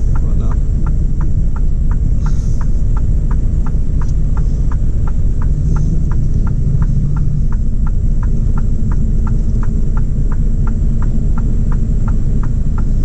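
Six-cylinder truck diesel running with a heavy, uneven low rumble, heard from inside the cab. It is misfiring: the driver says it feels like it is running on four cylinders and suspects a failed injector. A regular ticking at about three a second runs over it.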